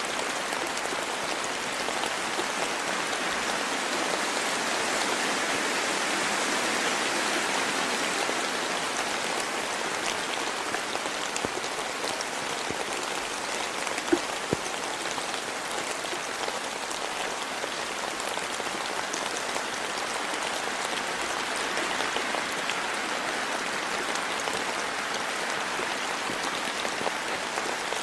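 Steady rain falling, an even hiss, with a couple of sharp louder drop ticks about halfway through.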